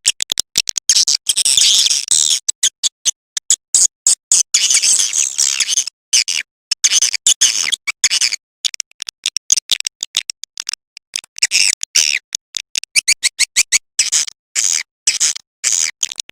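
Swiftlet lure-call recording: rapid high-pitched swiftlet chirps and twitters, chopped by many abrupt short silences, as played from a nest house to call swiftlets in.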